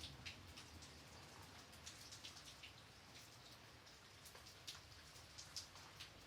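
Light rain: a faint steady patter with scattered individual drops ticking on a surface.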